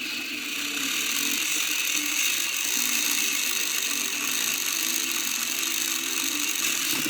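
A small geared mechanism running steadily, a dense high-pitched mechanical noise with no pauses.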